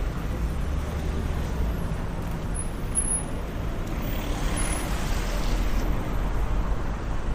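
Street traffic: a steady low rumble of passing vehicles, with a hiss swelling and fading about four to five seconds in.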